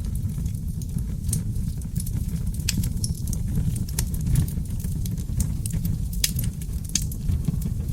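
Wood fire burning in a brick fireplace, its seasoned oak logs crackling and popping in many sharp irregular snaps over a steady low rumble of flames.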